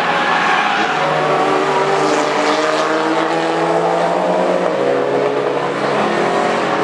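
Car engine running hard with a steady, loud engine note that steps down in pitch about two-thirds of the way through.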